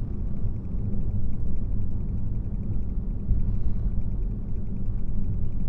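Steady low rumble of a car driving, heard from inside the cabin with the windows up.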